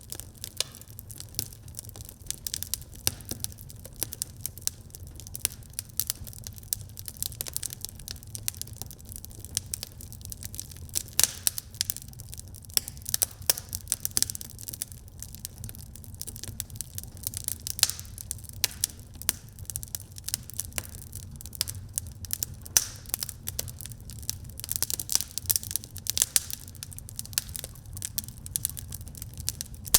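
Wood fire burning in a fireplace, crackling with frequent sharp pops over a steady low rumble of flames.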